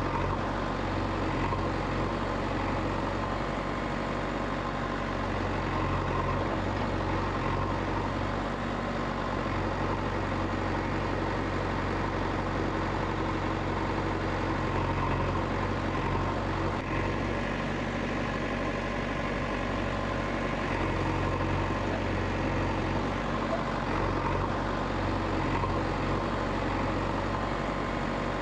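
A steady low engine-like hum running without change.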